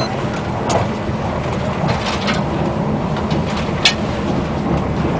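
Steady running rumble of an ETR600 high-speed train at speed, heard inside the passenger car, with a few short sharp clicks.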